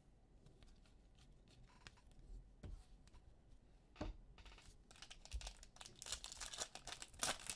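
Faint crinkling and rustling of a plastic or foil trading-card wrapper being handled and torn, a few scattered clicks at first, then busier crackling from about halfway through.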